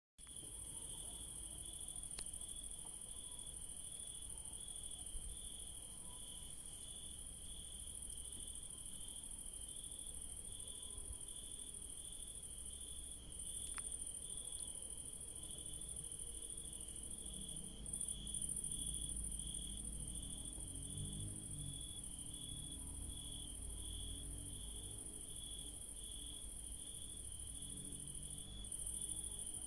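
Crickets chirping at night: a steady, evenly pulsed chirping over a continuous high-pitched insect trill that briefly drops out a few times, with a faint low rumble underneath.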